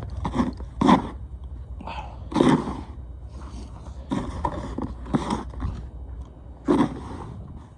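Snow shovel scraping and crunching through packed snow in a series of irregular strokes, about six in a few seconds, over a steady low rumble.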